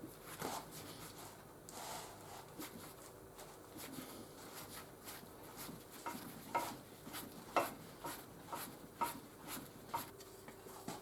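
Faint, irregular scraping and rubbing with scattered light clicks and knocks: hand work on the metal parts of a Record No. 3 bench vice.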